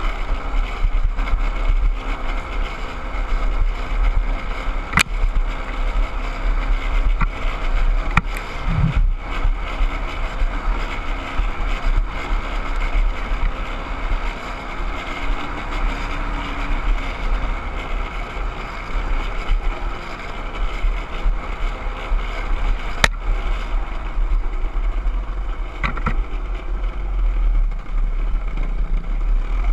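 Dirt bike engine running steadily under way, with wind rumbling on the microphone and a few sharp clicks.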